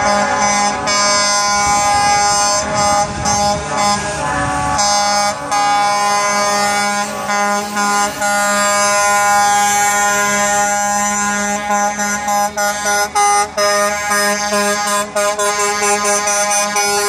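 Trucks' air horns blowing together at several pitches at once, held almost continuously with brief breaks. A low rumble sits under them for the first five seconds.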